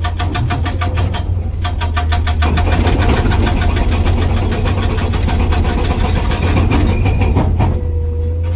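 Hydraulic rock breaker on a Komatsu PC200 excavator hammering rapidly at about ten blows a second over the steady drone of the excavator's diesel engine. The hammering stops near the end, leaving the engine running.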